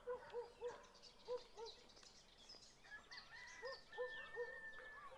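Faint birds calling: a string of short, low hooting notes, mostly in twos and threes, with higher chirps and twittering above them and a long thin whistle near the end.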